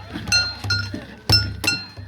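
Japanese festival float music: sharp metal gong strikes, about two or three a second, that ring at several high pitches, over low drum beats.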